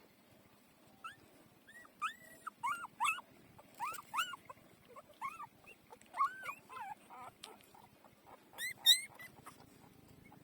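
Four-day-old puppies squeaking and whimpering: a string of short, high squeals that rise and fall in pitch, the loudest and highest coming near the end.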